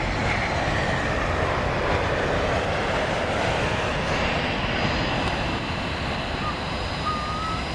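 Jet airliner engines running with a steady loud rush of noise and a faint high whine.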